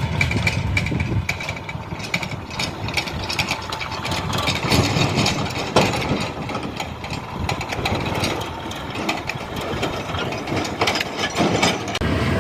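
Tractor engine running, with irregular clattering knocks over it, the sharpest about halfway through.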